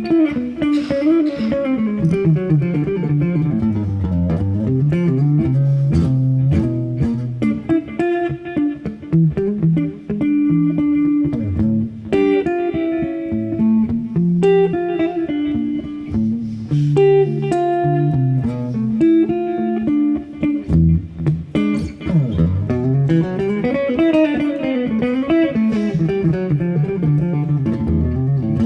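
Solo guitar playing an instrumental passage: picked melody lines over low bass notes.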